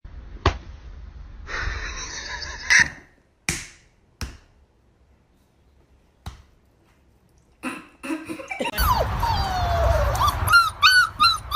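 A few sharp knocks, then a dog whining from about nine seconds in. It gives one long falling whine, then a quick run of short, rising, high-pitched whimpers.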